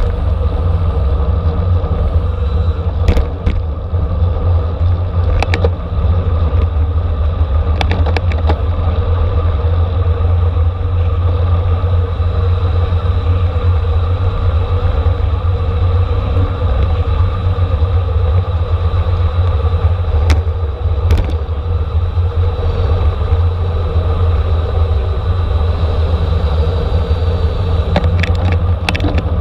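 Steady, loud wind and road rumble on a racing bicycle's camera microphone at speed, with a few short sharp clicks scattered through.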